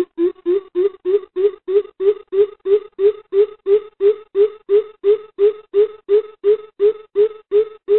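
Greater coucal calling: a long run of deep hooting 'boop' notes, about three a second, rising slightly in pitch over the first second and then holding steady.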